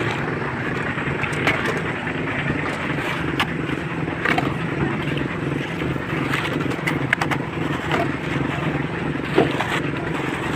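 Small concrete mixer machine running steadily with a pulsing engine drone, with scattered knocks and scrapes, the loudest near the end.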